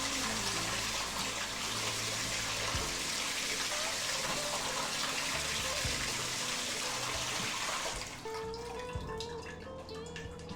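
Water running steadily from a tap, shut off about eight seconds in, after which a few drips are heard.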